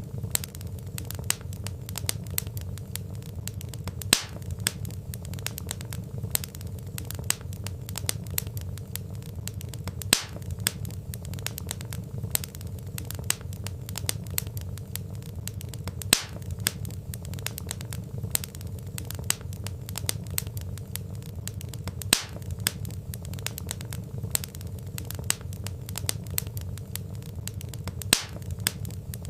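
Wood fire crackling steadily: dense small crackles over a low rumble of flame, with a louder pop about every six seconds.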